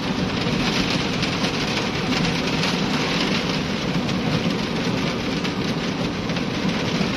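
Heavy rain falling on a vehicle's roof and windshield, heard from inside the cab as a dense steady hiss of many drops, with the vehicle's engine running low underneath.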